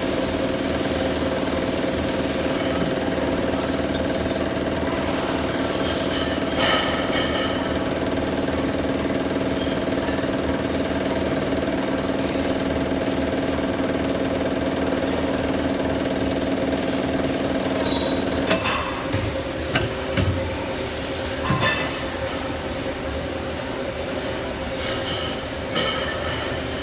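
Corner-notching machine running with a steady hum, with sharp clunks of its cutting strokes, one about a quarter of the way in and several in the last third. The deepest part of the hum stops about two-thirds through.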